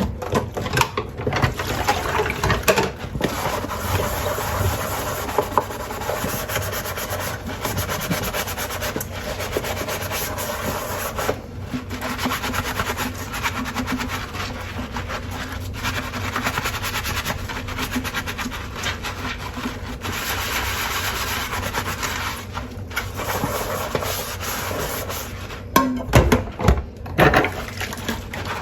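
Dishes being hand-washed at a sink: a sponge rubbing on crockery under running water, a steady scrubbing hiss with scattered small clinks. Near the end there is a louder clatter of dishes knocking together.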